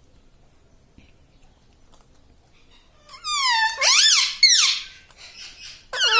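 Talking parrot giving a high, squeaky two-part call about three seconds in, with a second call starting near the end. The first half is quiet.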